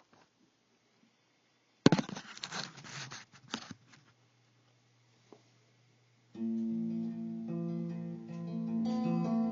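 A burst of knocks and rustling for about two seconds, then quiet. About six seconds in, a Stratocaster through a 1966 Fender Deluxe Reverb amp begins the song's intro with ringing, sustained notes.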